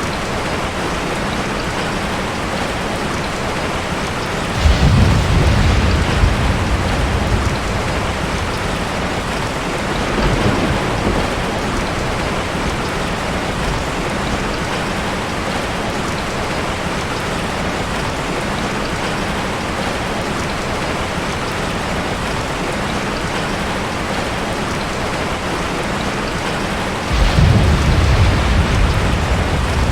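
Heavy rain falling steadily on a tin roof, with low thunder rumbling in about five seconds in, fainter again around ten seconds, and once more near the end.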